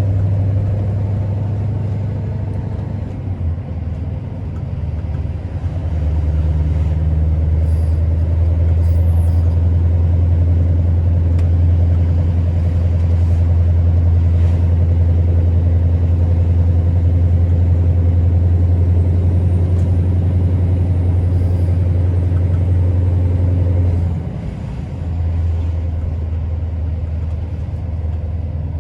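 Scania R650's 16-litre V8 diesel running under way with a steady low drone. The drone eases off about three seconds in and picks up again around six seconds, then drops briefly once more near the end before pulling again.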